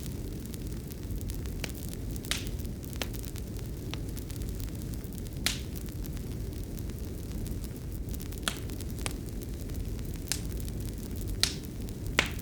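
Fireplace fire crackling: about ten sharp, irregular pops and snaps over a steady low rumble.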